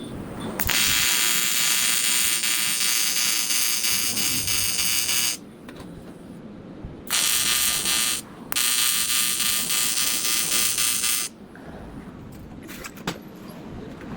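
AC TIG welding arc on aluminium buzzing in three bursts: a long one of about five seconds, a short one, then another of about three seconds, each starting and stopping abruptly. A single sharp click comes near the end.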